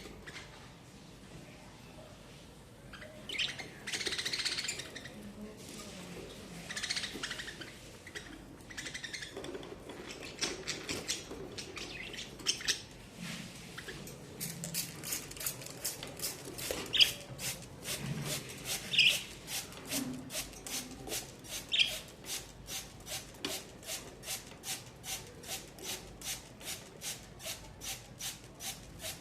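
Pet budgerigars chirping, with a few sharp high calls. Through the second half a regular scraping or rasping runs at about two strokes a second.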